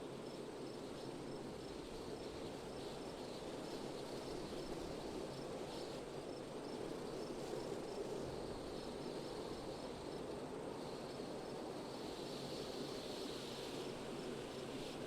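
Wind blowing steadily, with insects chirping high above it in an even rhythm through the first half and a thin high hum later on.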